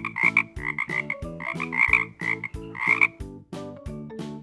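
Frog croaking sound effect: rapid clusters of croaks repeated over about three seconds, then stopping, with a light background tune under it.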